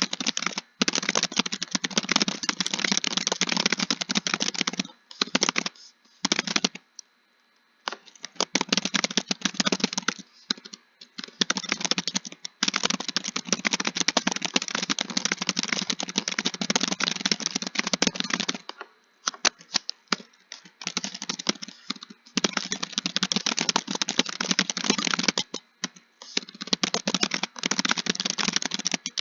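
Rapid typing on a computer keyboard, fast runs of key clicks broken by short pauses, the longest about seven seconds in.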